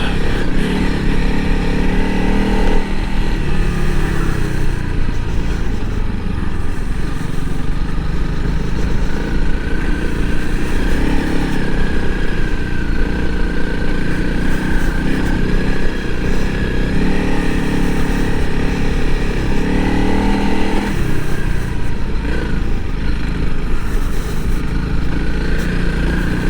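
Single-cylinder four-stroke engine of a Honda CRF300L Rally dual-sport motorcycle running under load through soft sand, its revs rising and falling with the throttle.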